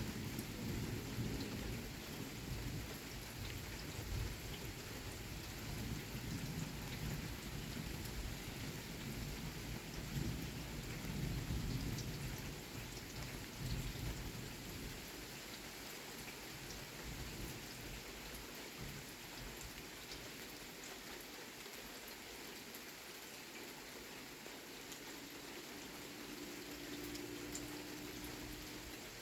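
Thunderstorm: steady rain falling, with rolling low rumbles of thunder through the first half that die away about halfway through, leaving the rain on its own.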